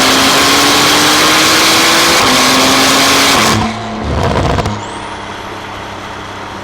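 Porsche 911 Carrera's twin-turbo flat-six with titanium exhaust pulling hard under acceleration, its pitch rising, dropping with an upshift about two seconds in, then climbing again. A little over three and a half seconds in the throttle closes and the sound drops sharply; after a brief louder burst the engine settles to a much quieter steady drone.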